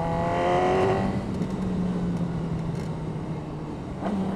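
Suzuki GSX-R600 inline-four engine with its stock exhaust running under the rider, with wind noise. The engine note drops in pitch over the first second, then holds at a steady low hum.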